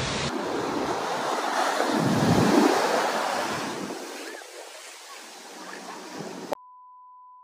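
Rushing water with wind on the microphone. It swells about two seconds in, then fades away. Near the end it cuts off abruptly to a single steady beep tone.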